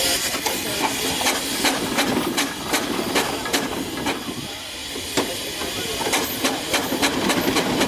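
Steam engine hissing steam, with sharp knocks about three a second from its exhaust beat or moving parts.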